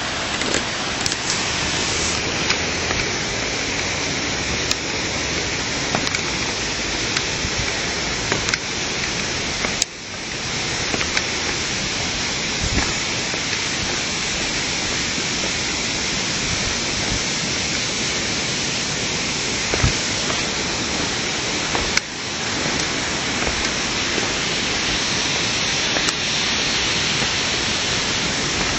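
Steady rushing of a waterfall, an even roar of falling water that dips for a moment about ten seconds in and again about twenty-two seconds in.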